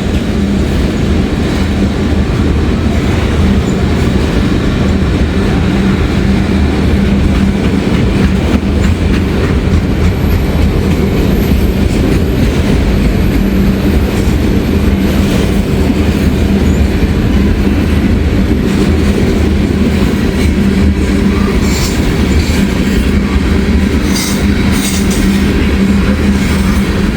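Freight train passing at close range, its loaded autorack cars and covered hoppers rolling by with a steady rumble and wheel clatter. A faint high wheel squeal runs through the middle stretch.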